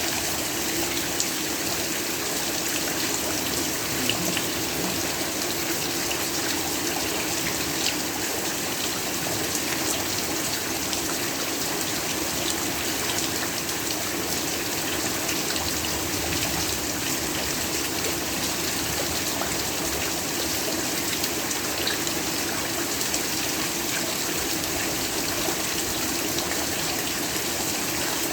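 Heavy rain falling steadily, a dense even hiss with many small drop ticks and no pauses.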